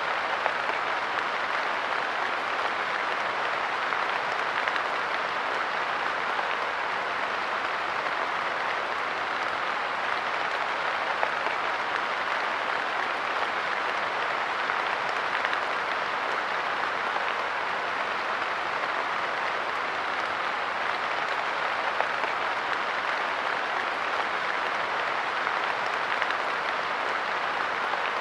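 Steady light rain pattering on a park bench, a dense, even hiss of many small drops.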